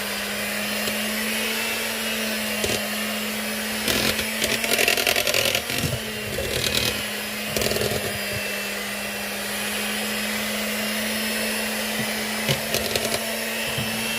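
Electric mixer running at a steady speed, beating cake batter in a bowl, with louder clattering of the beaters against the bowl about four to eight seconds in.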